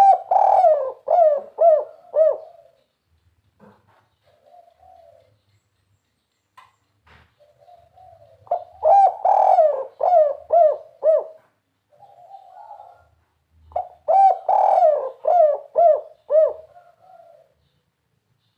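Spotted dove (tekukur) cooing in the 'kuk 3' style: three phrases, each a quick run of several falling coo notes, spaced about six seconds apart, with soft low notes in the gaps.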